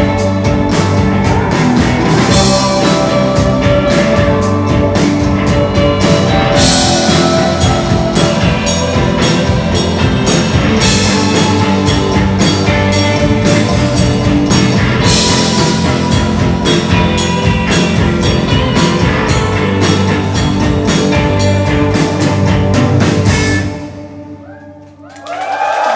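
Loud rock music with drum kit and guitar, stopping sharply about two and a half seconds before the end and ringing down. A crowd starts cheering just before the end.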